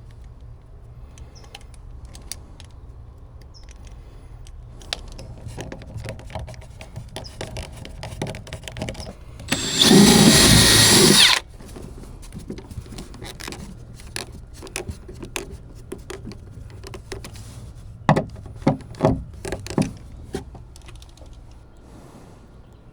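A power drill runs once for about two seconds, roughly ten seconds in. Scattered knocks and clicks of handling tools and wood come before and after it, with a short run of louder knocks near the end.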